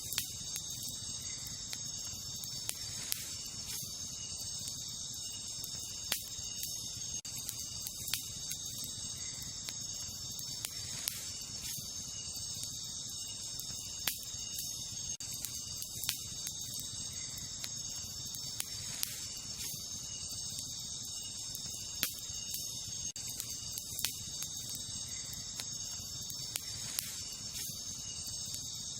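A steady, high chorus of night insects runs throughout. Over it, a wood campfire gives sharp pops and crackles every second or two above a low hiss.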